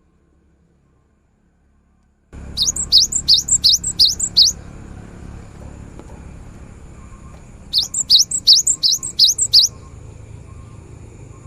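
Cinereous tit (gelatik batu) singing: two quick phrases of about seven sharp, rising whistled notes each, the first coming in after about two seconds of near silence and the second about eight seconds in, over a steady background hiss.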